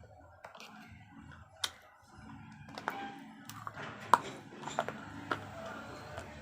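Slate pencils being bitten and chewed: a string of sharp, crisp crunches and snaps, the loudest about four seconds in, over a low background hum.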